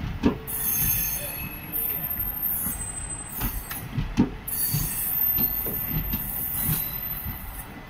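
Passenger coaches of a departing train rolling past, with wheels knocking over the rail joints and a high wheel squeal that comes in twice and fades.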